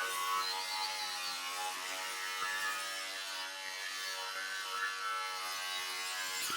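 Small handheld power tool running under load, cutting away the car body's inner roof sheet metal where it fouls the rear window frame; a steady whine that wavers slightly in pitch as it bites.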